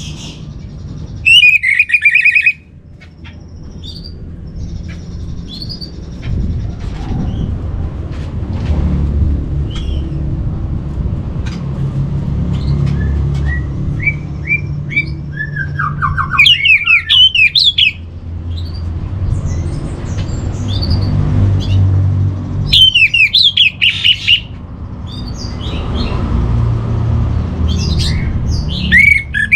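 Orange-headed thrush singing: several loud bursts of rapid, varied whistled phrases with softer calls between them, over a steady low rumble.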